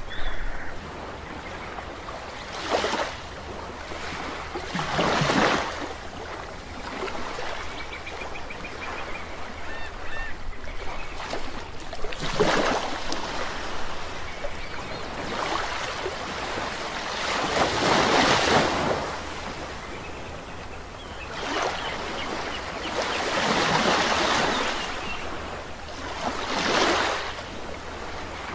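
Sea waves breaking and washing up a shore, a fresh surge of surf every few seconds, with faint bird calls in the background.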